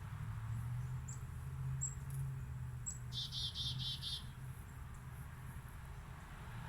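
Small birds chirping: a quick trill of about five rapid notes a little past the middle, with a few faint, sharp high chips before it. A low steady hum runs underneath and fades out after the trill.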